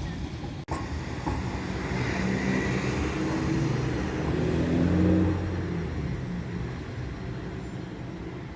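Tram passing: a low rumble with a motor hum that swells to its loudest about five seconds in, then slowly fades away.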